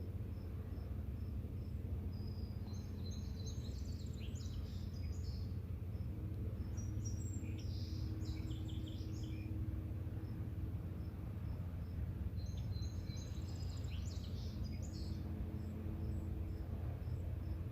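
Outdoor evening ambience: a songbird sings a short, busy phrase three times, roughly every five seconds, over a regular faint high chirping of about two chirps a second, like a cricket, and a steady low rumble.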